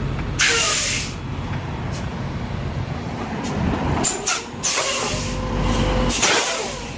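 Semi truck's diesel engine running low and steady, with three short hisses of released compressed air from the air brake system.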